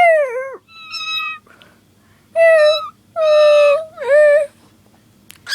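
Cockatiel mimicking a cat's meow: about five loud 'nya' calls, the first falling in pitch and one a higher whistle, with a short sharp click near the end.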